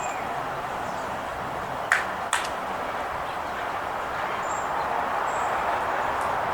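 Outdoor ambience: a steady rushing noise, two sharp clicks about two seconds in, and a few faint, short, high bird chirps in the second half.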